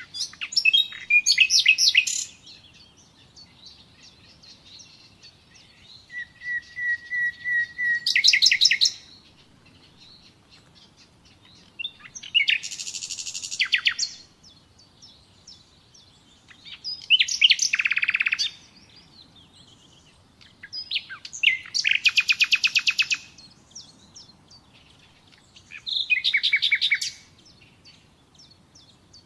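Nightingale singing six separate phrases a few seconds apart, each a rapid trill or run of repeated notes. One phrase opens with a row of slow, evenly spaced whistled notes that swell in loudness before breaking into a trill.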